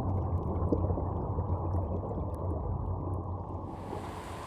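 Motorboat engine running with a steady low drone and rushing water, dull and muffled. A brighter hiss of water joins a little before the end.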